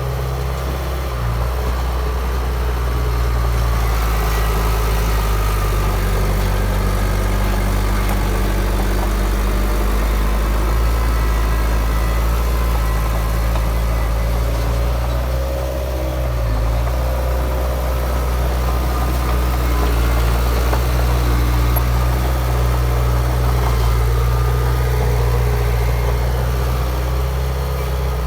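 Heavy earthmoving machine's diesel engine running steadily with a deep, even drone, easing slightly for a moment about halfway through.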